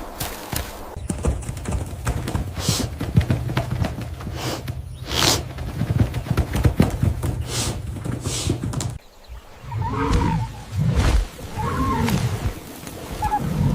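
A run of clicks and knocks over a steady low hum, then, after a short break about nine seconds in, cattle mooing several times in low, bending calls.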